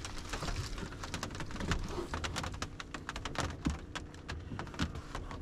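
Rain pattering on the pickup's camper shell: a dense, irregular patter of ticks, with clothes rustling and a few soft bumps as someone dresses inside.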